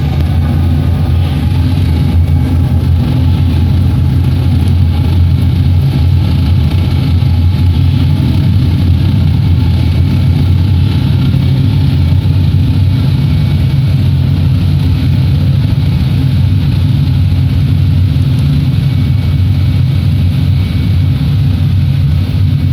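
ZSU-23-4 Shilka's diesel engine running steadily, a loud, even low drone with no change in speed.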